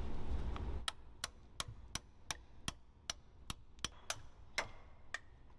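Hammer striking a socket set against a grease-and-bread-packed pilot bearing, about a dozen sharp metallic blows at roughly three a second starting about a second in. This is the hydraulic method of forcing an old pilot bearing out of the crankshaft end without a puller.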